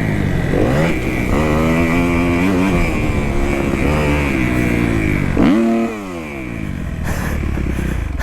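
2018 Kawasaki KX250F's four-stroke single-cylinder engine revving up and down under riding, its pitch climbing and dropping several times. About five and a half seconds in it revs sharply, then falls away, and it runs quieter after that.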